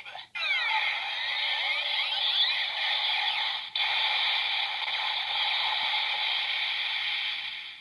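Ghost Driver toy belt playing its electronic Omega Drive finishing-move sound effect: a dense, noisy blast opening with swooping tones, a brief break about halfway, then running on steadily until it cuts off suddenly.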